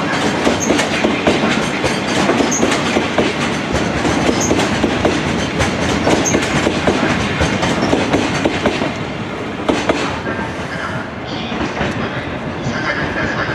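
Freight train of coal wagons rolling past, wheels clicking steadily over the rail joints. It eases slightly in the last few seconds, when a faint steady tone comes in.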